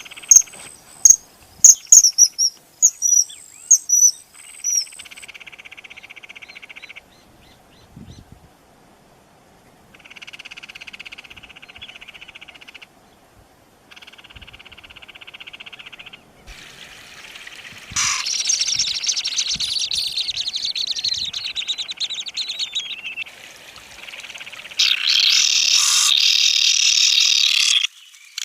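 Common kingfisher calling: a quick string of shrill, high whistles over the first five seconds, then several bouts of steady buzzing a few seconds each, and a louder, dense churring in the second half.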